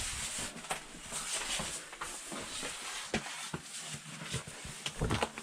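Irregular scrapes, knocks and rustling of a caver moving through a rocky cave entrance, over a steady hiss.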